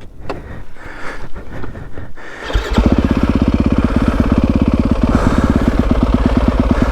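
Yamaha WR250F's single-cylinder four-stroke engine starts about two and a half seconds in, then runs with a steady, rapid pulse. Before it catches there are scattered knocks and rustling.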